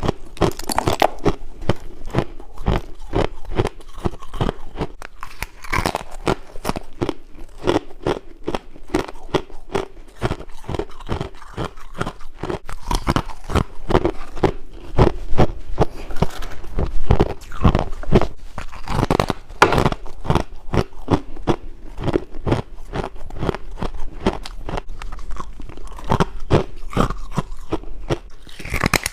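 Frost ice being bitten and chewed close to the microphone: a dense, irregular run of sharp crunches.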